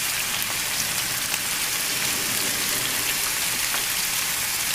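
Sliced chicken breast frying in hot oil in a pan: a steady sizzle with scattered small pops.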